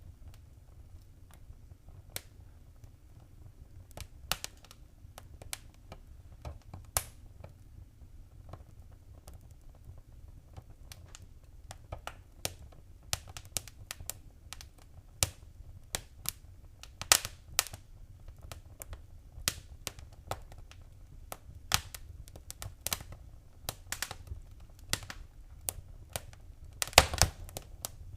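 Wood fire crackling in a fireplace: irregular sharp pops and snaps over a low steady rumble. The pops grow more frequent and louder after about eleven seconds, with a cluster of loud pops near the end.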